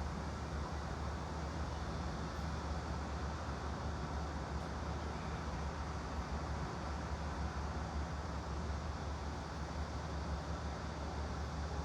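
Steady background noise: an even hiss with a low hum underneath, unchanging throughout, used as white-noise ambience.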